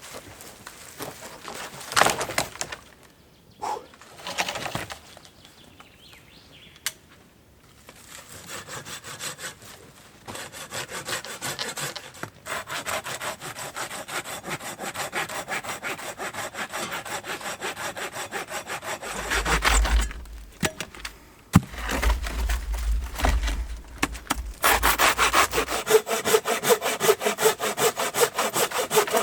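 Hand saw cutting through wood in long runs of fast, even strokes, with a few sharp cracks of breaking wood in the first seconds.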